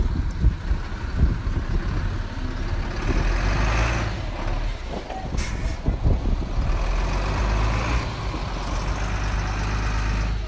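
Heavy diesel engine of earthmoving equipment running under load, working harder twice, with a brief sharp hiss about five and a half seconds in.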